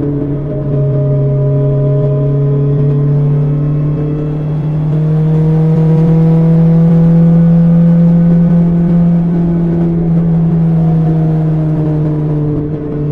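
BMW S1000XR inline-four engine running through an Akrapovic exhaust at a steady cruise. The engine note rises gently through the middle and eases off again near the end.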